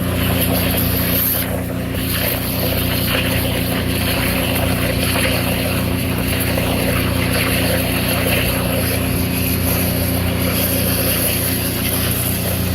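VacTron vacuum excavator running steadily: a constant engine and vacuum-blower drone under a rushing hiss of suction and water spray. Pressurized water is being jetted down the hole to loosen soil around a buried pipe while the slurry is sucked up.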